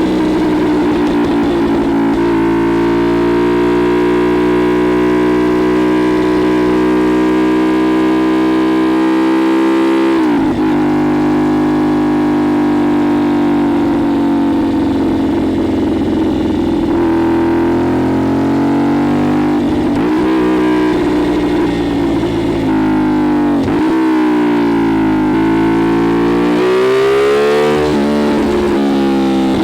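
CFMoto 450SS parallel-twin engine through a Leo-Vince LV-10 slip-on exhaust, under way: it holds steady revs for about ten seconds, then drops off and rises and falls again through throttle and gear changes, climbing near the end.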